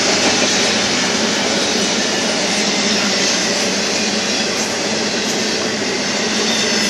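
Steel wheels of a double-stack container train's well cars rolling past on the rails: a steady, loud wheel-on-rail noise.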